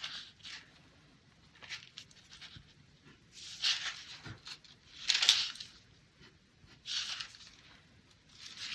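Pencil tracing strokes scratching across paper laid over graphite transfer paper: about six short, separate scratches a second or so apart.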